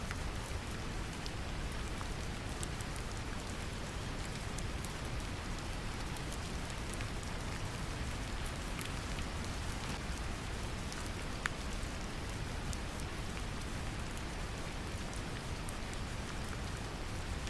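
Steady brown noise, a deep even rumble, mixed with gentle rain: a continuous patter with scattered individual drop ticks.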